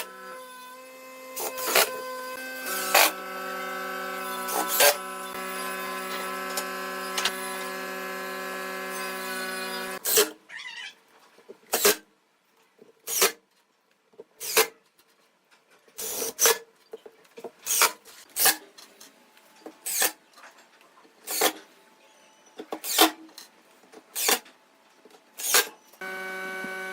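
A workshop machine hums steadily with a few sharp knocks, then stops about ten seconds in. After that come single sharp knocks on wood about every second and a half, like hammer or mallet blows.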